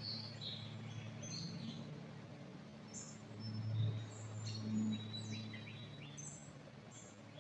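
Songbirds chirping and calling in many short, high notes, some quick slides in pitch, scattered throughout, over a low steady background hum.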